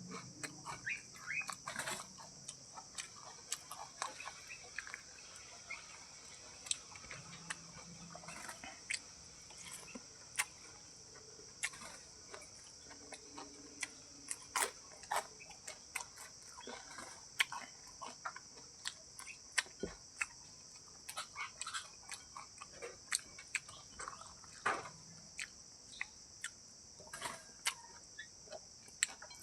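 An animal eating, with irregular crunching and clicking bites, over a steady high insect drone.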